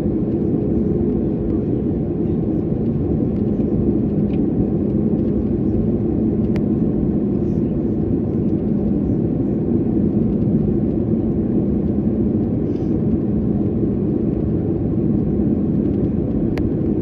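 Steady low drone inside an airliner cabin in flight: jet engine and airflow noise with a steady hum, and a few faint clicks.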